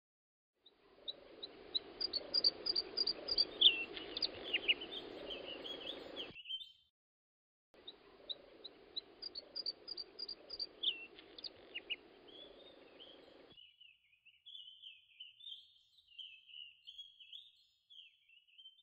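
Birds chirping and trilling over a steady background hiss, cut off sharply twice. In the last five seconds a single bird sings a continuous warbling song alone.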